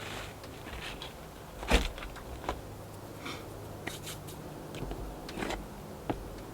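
Plant pots and potting soil being handled during repotting: one sharp knock a little under two seconds in, the loudest sound, then a few lighter knocks and short rustling scrapes.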